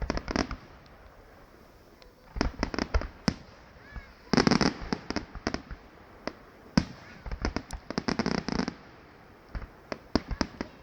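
Fireworks going off: a string of sharp separate bangs, with two dense bursts of crackling, one about four seconds in and another around eight seconds.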